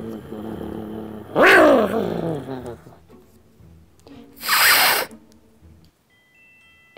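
A person vocally imitating an angry cat: a drawn-out yowl about a second and a half in, then a sharp hiss about four and a half seconds in. A few faint chime tones sound near the end.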